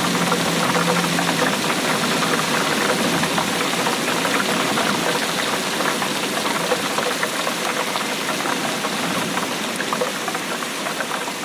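Steady heavy rainfall: a dense, fast spatter of raindrops striking a hard surface, with no pauses.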